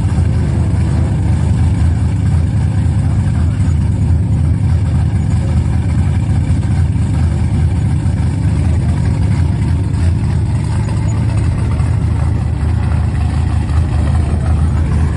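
An engine running steadily with a low rumble, at an even pace throughout.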